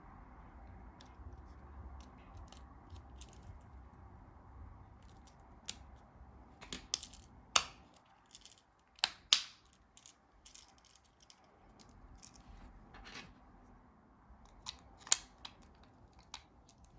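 Plastic casing of a Ford remote key being handled and snapped back together after a battery change: a scattering of sharp clicks and snaps, the loudest about halfway through and another near the end, with light handling rustle between.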